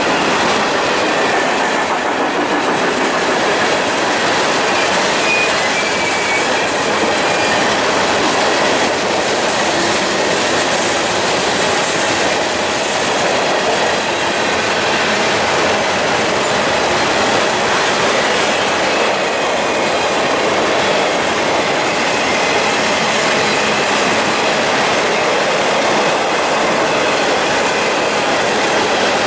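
A train rolling past close by: a steady, loud rush of steel wheels on rail with the clickety-clack of rail joints.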